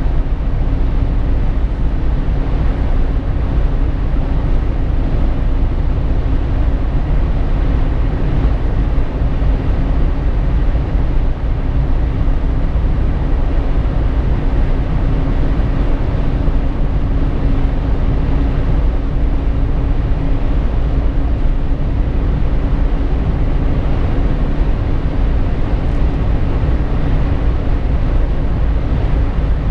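Steady road noise inside a moving Jeep Wrangler JK's cabin: a constant low rumble from tyres, wind and drivetrain, with a steady hum running through it.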